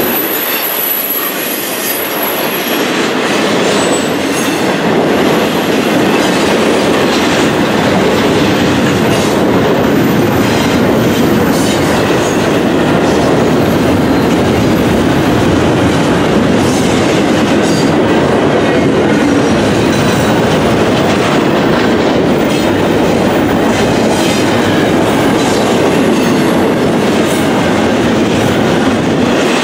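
Double-stack intermodal well cars rolling past close by: a steady rumble of steel wheels on rail with the clickety-clack of wheels over rail joints. A thin, high wheel squeal sounds in the first couple of seconds.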